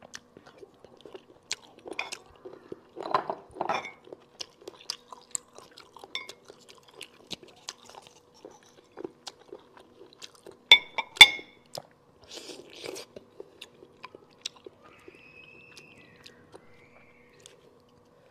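Close-up chewing and mouth sounds from eating cooked conch meat, with many small wet clicks. Two loud, sharp ringing clinks of tableware come about two-thirds of the way through.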